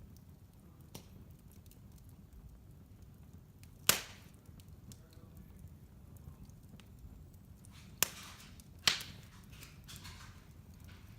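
Wood fire burning in a fireplace: a low steady rumble with faint crackles. There is a sharp loud pop about four seconds in, and two more about a second apart near the end.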